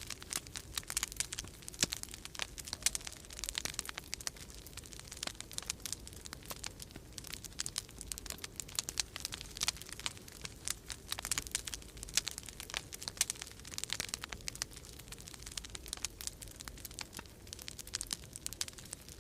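Wood fire crackling in a fireplace: dense, irregular pops and snaps over a low, steady rumble of storm wind.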